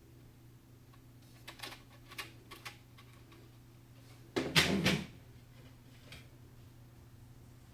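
Handling noises from computer hardware being worked on: a few light clicks, then a louder knock and rattle of about half a second, four and a half seconds in, over a steady low hum.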